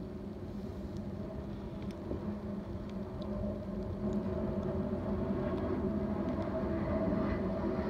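Diesel train running by: a steady low engine hum and rumble that grows slowly louder as the train draws nearer.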